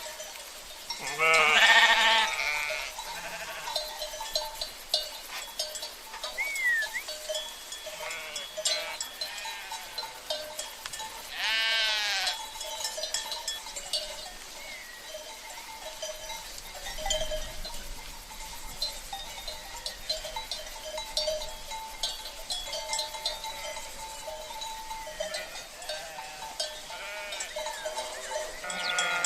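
Sheep bleating, loudest about a second in and again around twelve seconds, over the steady clinking of cowbells and the faint rush of a river.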